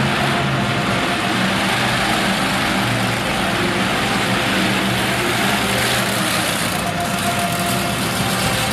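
Monster truck engine running loudly and steadily at a low pace, over a broad wash of noise.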